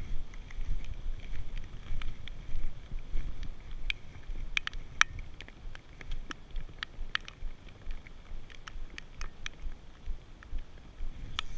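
Wind buffeting the microphone in a steady low rumble, with scattered sharp clicks throughout.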